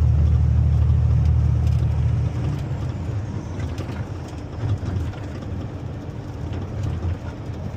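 Tractor-trailer diesel engine running, heard from inside the cab as a heavy low drone. About two seconds in it eases off and quietens as the throttle comes off, then keeps running lower.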